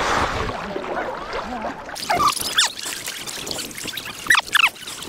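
Water splashing and trickling in the shallows, with several short high squeaks, most of them in pairs, about two seconds in and again near the end.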